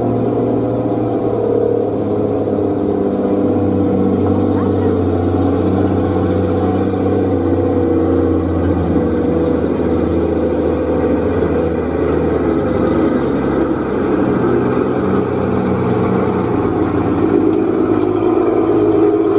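Old truck's engine running hard under load, its note holding fairly steady and growing a little louder near the end.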